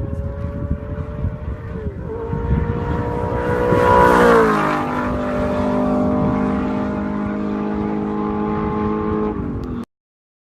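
A car engine passes close by: its pitch drops sharply as it goes past about four seconds in, where it is loudest, then holds steady at a lower pitch. The sound cuts off abruptly near the end.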